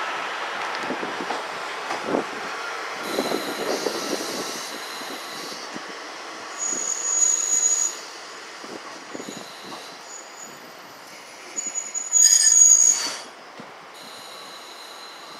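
Trains at a station: a rumble with clanks fades out over the first few seconds. Then high-pitched brake and wheel squeals come and go, loudest about seven seconds and about twelve seconds in, as an electric train draws to a stop. A steady high whine is left at the end.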